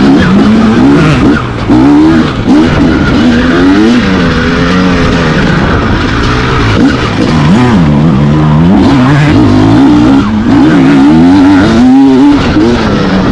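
Two-stroke dirt bike engines revving hard, their pitch rising and falling repeatedly as the throttle is worked, with more than one engine heard at once.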